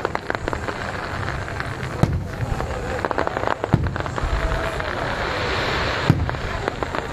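Aerial firework shells bursting in sharp bangs over continuous crackling, with loud reports about two seconds in, near four seconds and about six seconds in. The crackling haze swells just before the last big bang.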